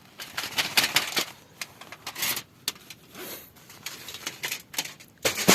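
Thin stainless-steel sheets of a folding fire pit being handled and fitted together: irregular metal clicks, light clanks and rattles with rustling in between, and a sharp knock near the end.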